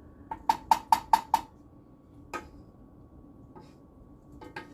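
Flat metal spatula knocking and scraping against a grooved frying pan to work ground turkey loose: a fast run of about six sharp, ringing taps in just over a second, then a few single taps.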